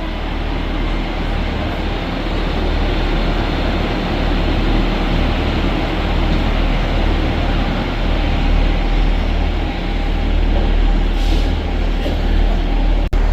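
TransPennine Express Class 397 electric multiple unit running through the station: a steady rail rumble with a low hum, growing slightly louder.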